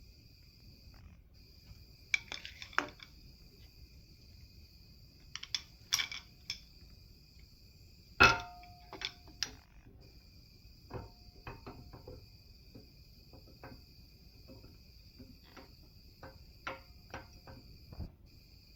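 Scattered metallic clinks and clanks of tools and engine parts being handled, the loudest a sharp ringing clank about eight seconds in. Underneath, crickets keep up a steady high trill.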